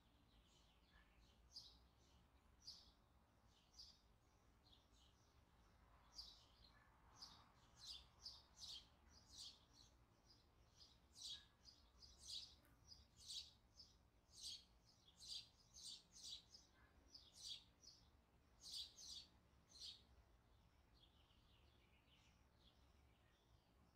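Faint chirping of a small bird: short, high chirps repeated irregularly, sparse at first and coming thick and fast through the middle.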